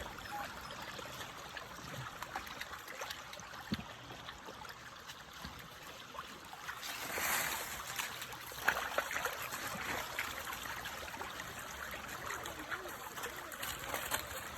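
Creek water trickling steadily, with a brief louder rush about seven seconds in and a scatter of small clicks.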